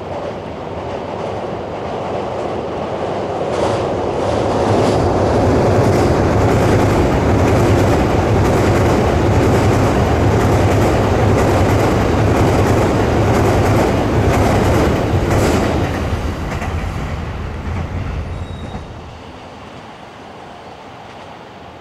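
JR E231 series 500-bandai electric multiple-unit train crossing a steel truss railway bridge: a loud, deep rumble of wheels and steelwork with occasional sharp clicks of rail joints. It builds over the first few seconds, holds, then fades away over the last quarter.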